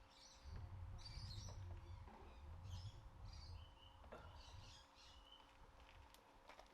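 Faint birds chirping: a string of short calls, some of them repeated, over a low rumble that is strongest in the first half.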